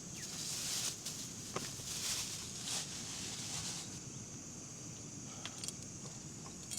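Faint outdoor ambience: a high hiss that swells and fades in soft pulses over the first few seconds, with a few light clicks and taps.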